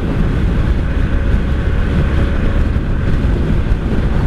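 1983 Honda Sabre VF750S's liquid-cooled V4 engine running steadily under way, with strong wind buffeting the microphone.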